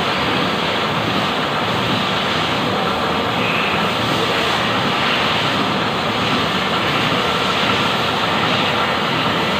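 Lathe running steadily: an unbroken mechanical whirr with a faint high whine riding on it.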